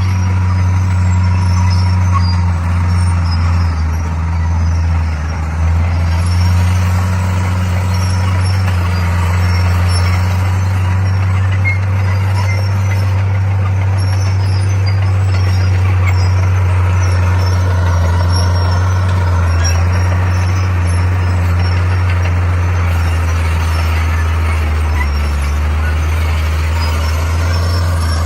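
D41 crawler bulldozer's diesel engine running steadily with a deep, even drone while the machine works.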